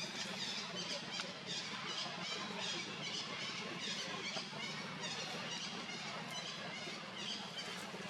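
High-pitched chirping repeated several times a second over a low steady hum.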